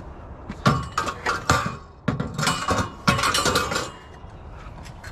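Scrap metal clanking and clinking as it is handled, in two rapid bursts of knocks about a second long each.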